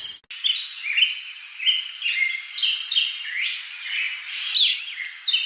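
A bird chirping over and over, a quick run of short high calls, some gliding up and some down, about three a second.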